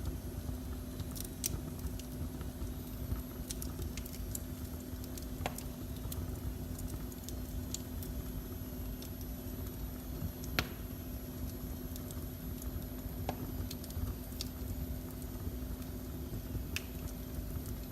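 Wood fire in a fireplace crackling, with scattered sharp pops over a steady low rumble and a faint constant hum.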